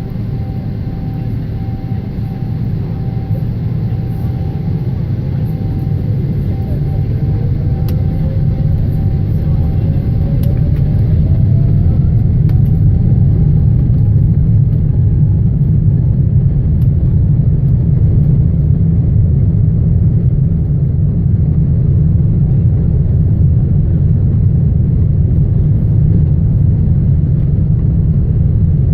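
Boeing 777 on its takeoff roll: a deep rumble that builds over the first dozen seconds and then holds steady, with a faint engine whine rising in pitch as the engines spool up.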